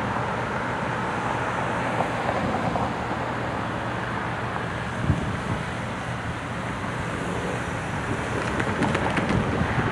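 Steady road traffic noise with wind on the microphone.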